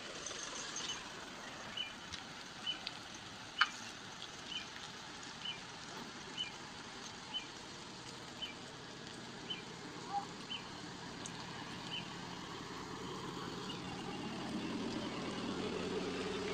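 Quiet outdoor ambience with a bird repeating a short high note about once a second, and one sharp click a few seconds in. From about two-thirds of the way in, a vehicle engine grows louder as traffic creeps closer on the muddy road.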